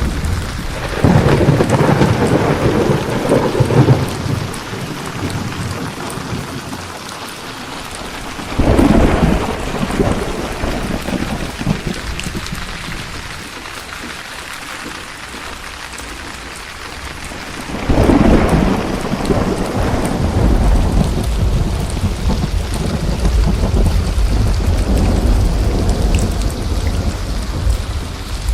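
Steady rain with thunder. Rolls of thunder break in about a second in and again near nine seconds, then a long low rumble starts around eighteen seconds and keeps going.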